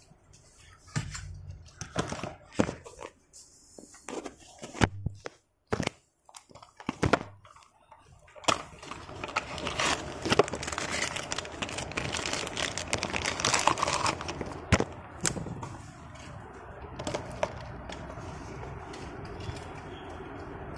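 Handling of die-cast toy car packaging: scattered clicks and knocks, then crinkling and rustling from about eight seconds in that eases into a softer, steadier noise near the end.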